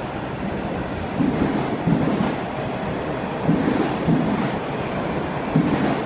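Toronto subway train running on the rails: wheels clunking over rail joints in repeated pairs, with a thin, high-pitched wheel squeal twice.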